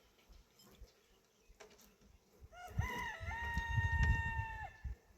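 A rooster crowing once, starting about two and a half seconds in: a few short rising notes, then one long held note of about a second and a half. A low rumble runs underneath the crow.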